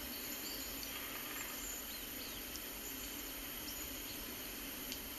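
A steady background hiss with a few faint, scattered high chirps, like an outdoor ambience track.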